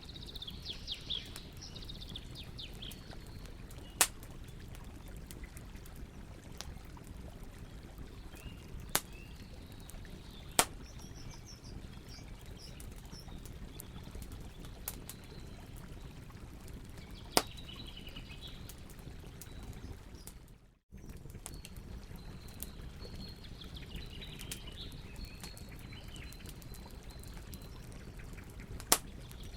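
Campfire burning with a steady low rustle and a handful of sharp, loud pops and crackles. Birds chirp in the background at several points. The sound cuts out for a split second about two-thirds of the way through.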